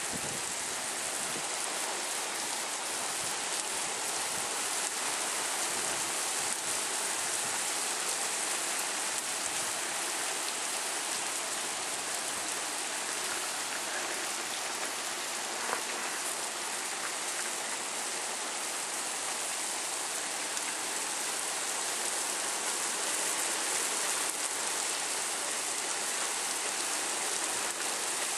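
Heavy rain pouring down, a steady, even hiss of rain hitting surfaces.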